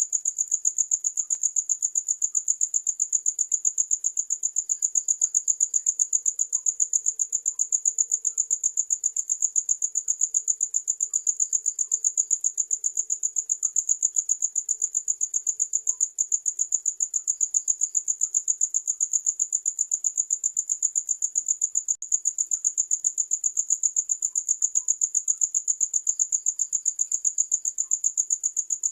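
A cricket chirping loudly and without pause: a high, rapidly pulsed trill at an even rate, with fainter chirps from other crickets now and then behind it.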